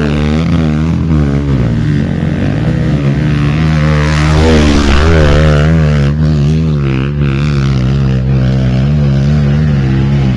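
Off-road motorcycle engine running on a trail ride, its engine speed rising and falling every second or so as the throttle is worked.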